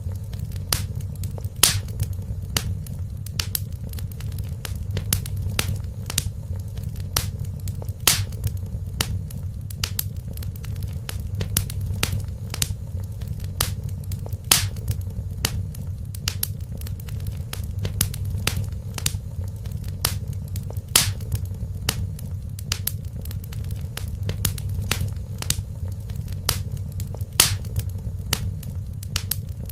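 Wood fire crackling in a fireplace: irregular sharp pops and snaps, several a second and a few much louder, over a steady low rumble of flame.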